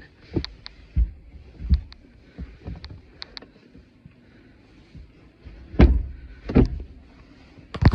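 Scattered knocks and thumps as fold-down bed panels are set in place and someone shifts about inside a small truck camper, with two louder thumps near the six-second mark and another at the end.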